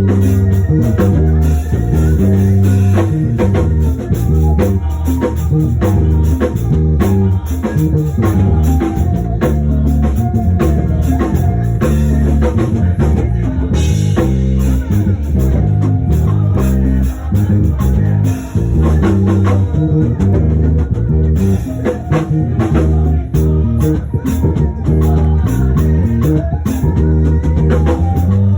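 Band music with a drum kit, guitar and a loud bass line moving from note to note, at a steady beat.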